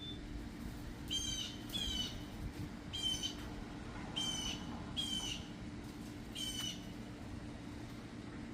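A bird giving six short, harsh calls spread over about five seconds, over a steady low background hum.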